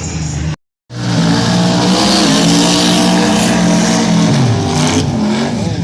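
Drag car running down the strip at full throttle: the engine is loud and strained, its pitch stepping as it pulls, then dropping about five seconds in. The audio cuts out completely for a moment just under a second in.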